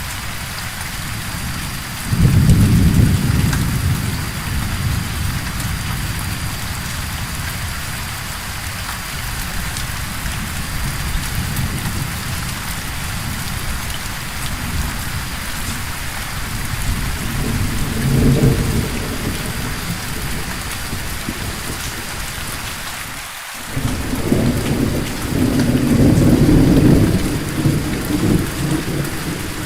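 Steady rain with rolls of thunder: a sudden rumble about two seconds in, a shorter one past the middle, and a long rumble near the end.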